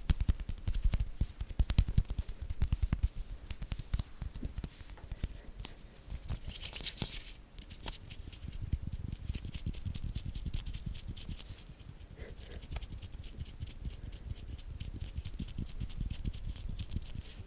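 Hand sounds close to the microphone: a dense run of quick finger taps, flutters and skin rubbing, with a louder swishing rub about seven seconds in.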